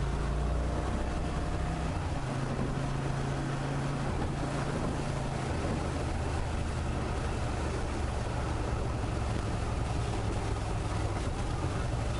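Motorcycle engine running at low revs while riding, over road and wind noise; its low note shifts a little a few times.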